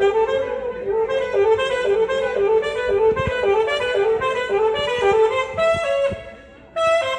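Saxophone playing a fast run of alternating notes, then a held higher note that fades about six seconds in; a new held note begins near the end.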